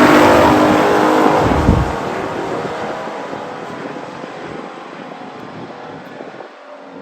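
Vintage muscle-car drag racers running at full throttle down the drag strip, loud at first, then fading steadily as they pull away down the track.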